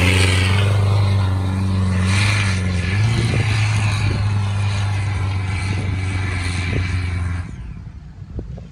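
A 4x4 vehicle's engine running steadily under load, its pitch dipping and then stepping up about three seconds in. The sound cuts off suddenly near the end.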